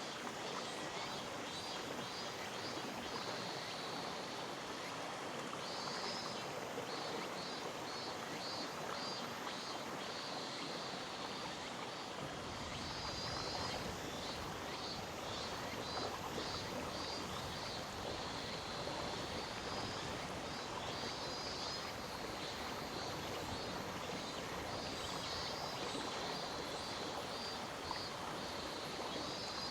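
A mountain stream flowing steadily. Over it, bouts of high, rapidly pulsed chirping come back every several seconds from a small animal calling.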